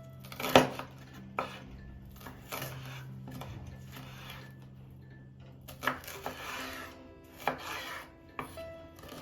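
Kitchen handling: about six sharp knocks and clatters of utensils and dishes, the first the loudest, some followed by a brief scrape, over soft background music.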